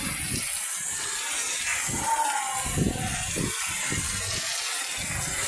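Heavy rain falling as a steady hiss, with irregular low thuds.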